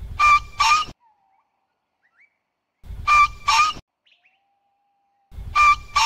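A bird calling: a harsh two-note call given three times, about once every three seconds, with a few faint thin whistles in the gaps.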